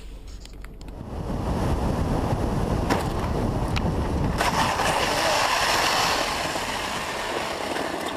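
Steady rushing wind and road noise of a moving vehicle, swelling about a second in and easing near the end, with two short clicks around three and four seconds in.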